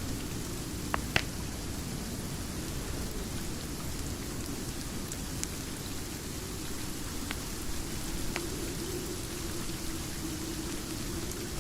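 Steady rain with a low rumble, with a few sharp pops of a fireplace crackling over it. The two loudest pops come close together about a second in.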